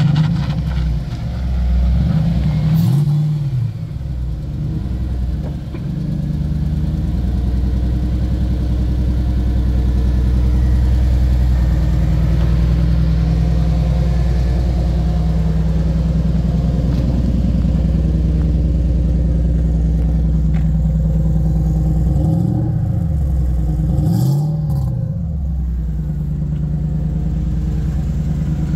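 Toyota 3UZ-FE V8 in a BMW E46 running at a steady idle. The revs are blipped up and down twice a couple of seconds in, and twice more about 22 to 25 seconds in.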